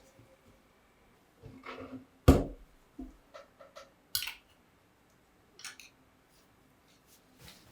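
Metal parts of a rifle being handled on a bench: a string of separate clicks and knocks, the sharpest about two seconds in.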